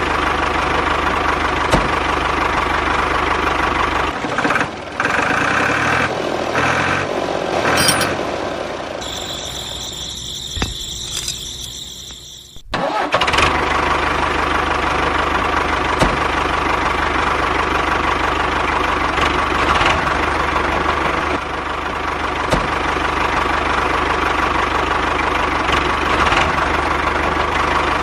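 An engine running steadily at idle. About a third of the way through it thins and fades for a few seconds, then comes back in abruptly and runs on steadily.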